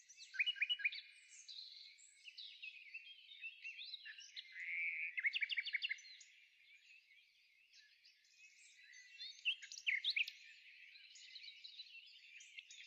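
Small birds chirping and singing, with many short overlapping calls and trills and a brief lull a little past the middle.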